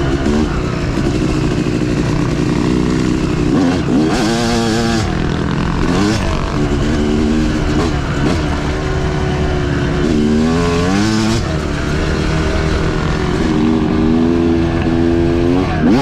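Dirt bike engine being ridden, its pitch rising and falling again and again as the throttle opens and closes through the gears.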